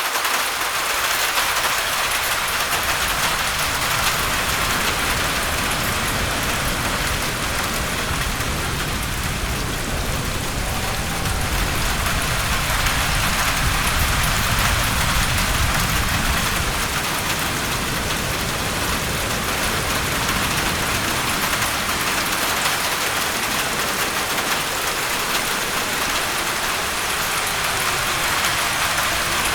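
Heavy rain falling steadily, a dense even hiss of drops, with a low rumble beneath it that is stronger in the first half and falls away about halfway through.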